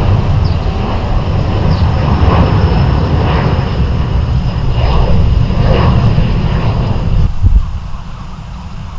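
Jet airliner engines running loud, a deep rumble with a thin high whine over it, which cuts off suddenly about seven seconds in and leaves a quieter low rumble.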